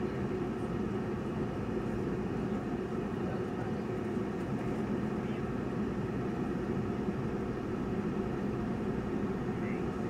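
Car engine idling with a steady low hum, heard from inside the cabin while the car stands still.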